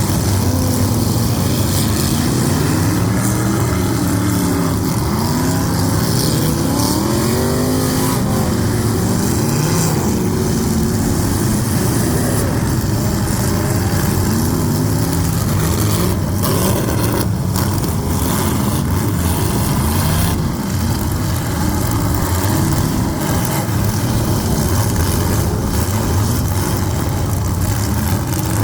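Demolition derby cars' engines revving, several pitches rising and falling over one another above a loud steady din, with a few sharp knocks a little past halfway.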